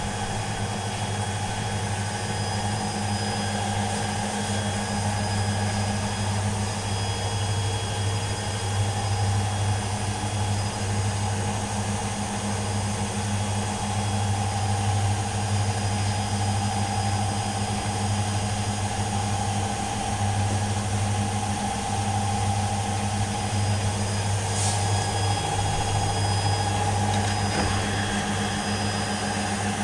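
Kuppersberg WM 410 W washing machine spinning its empty drum at high speed: a steady motor hum, with one brief click about two-thirds of the way through.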